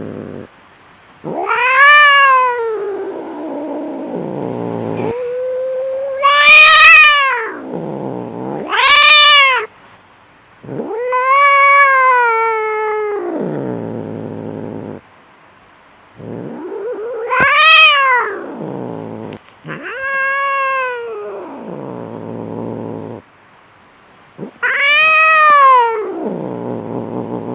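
Cats fighting: about seven long yowls that rise and fall in pitch, each a second or two long, with low drawn-out growling between them.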